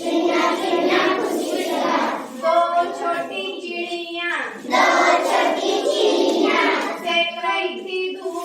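A group of young children singing a Hindi nursery rhyme together in chorus.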